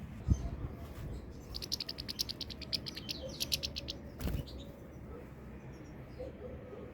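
European goldfinch singing a rapid trill of high, evenly repeated notes for about two seconds in the middle. Two dull thumps, one near the start and one just after the trill.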